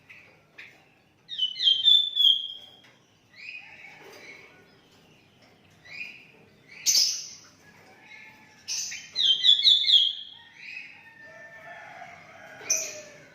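Sooty-headed bulbul (kutilang) singing short bursts of whistled notes, with two loudest phrases about a second in and about nine seconds in, and shorter calls between them.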